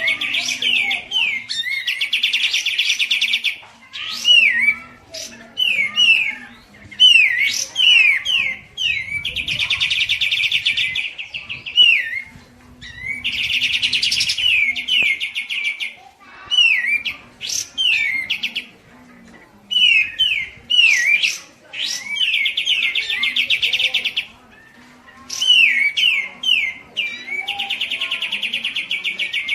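Songbird singing loudly. Its song alternates rapid buzzy trills of a second or two with runs of sharp, sweeping up-and-down whistled notes, over and over.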